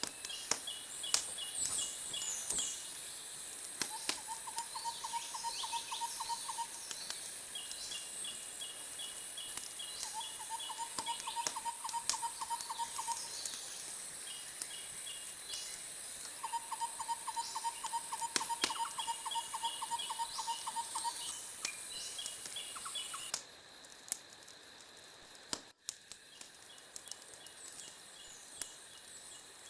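Bird calls: repeated trills of rapid, evenly spaced notes, in a lower series and a higher series, each lasting a few seconds. They sit over a steady high hiss with scattered sharp clicks, and the hiss cuts out abruptly about two-thirds of the way through.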